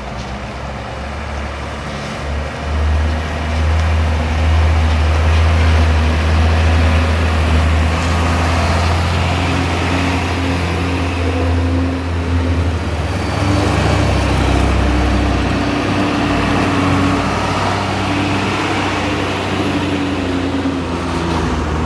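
Large truck's engine running steadily, growing louder about three seconds in.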